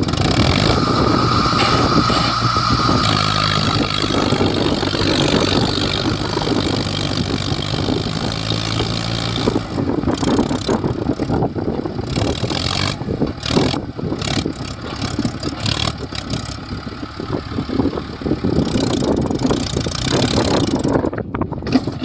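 Heavy diesel machinery engine running hard. A steady drone with a brief high whine early on gives way about halfway through to an uneven, choppier sound.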